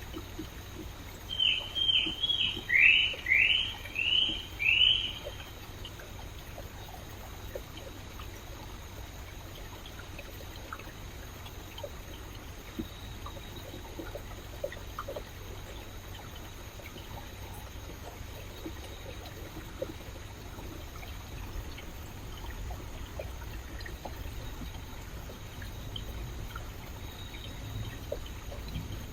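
Stream water trickling and babbling steadily. In the first few seconds a bird calls loudly in a quick series of about eight downward-sweeping notes.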